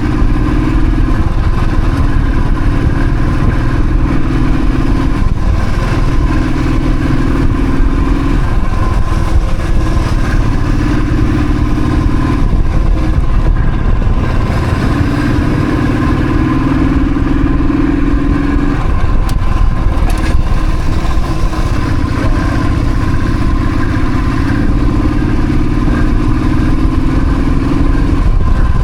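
Royal Enfield Thunderbird's single-cylinder engine running while riding, its note holding steady for a few seconds at a time, then easing off and shifting pitch with throttle and speed changes.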